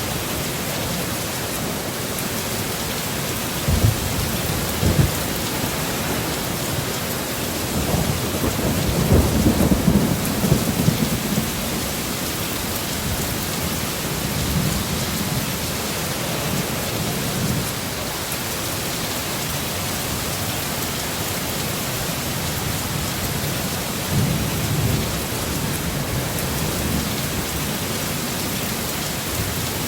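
Heavy storm rain falling steadily, with low rumbles of thunder: two short ones about four and five seconds in, a longer rolling one from about eight to eleven seconds, and a weaker one near twenty-four seconds.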